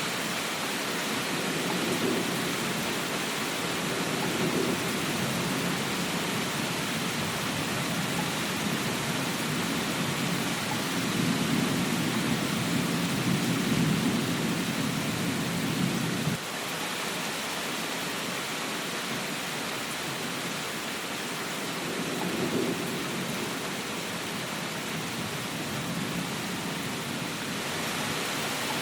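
Steady rain with low rumbles that swell and fade, the strongest building about ten seconds in and cutting off suddenly about sixteen seconds in.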